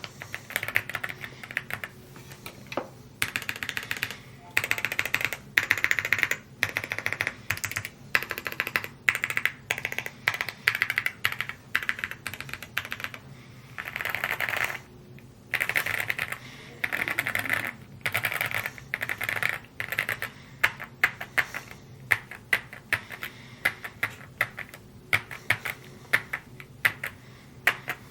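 Rainy75 mechanical keyboard being typed on fast: quick runs of keystroke clacks broken by short pauses every few seconds.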